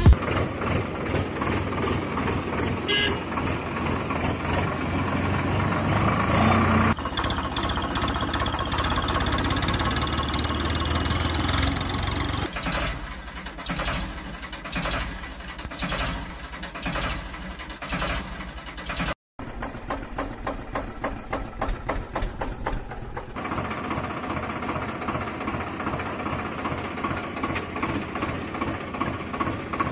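Vehicle engine sounds in several abruptly changing segments, with a brief cut-out about two-thirds of the way through.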